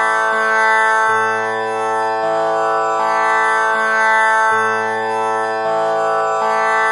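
Tanpura drone pitched at A, its strings plucked one after another in a slow repeating cycle of about one pluck a second. Each string rings on into the next, so the sound is a continuous drone rich in overtones.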